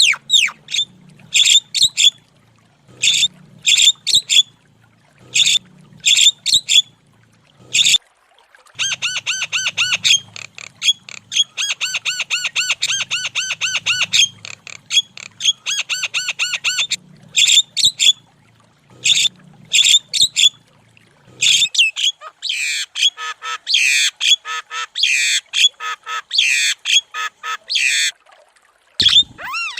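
Javan myna singing vigorously. Clusters of sharp, high whistled notes give way to a long run of rapid repeated notes in the middle, then to harsher, chattering calls near the end.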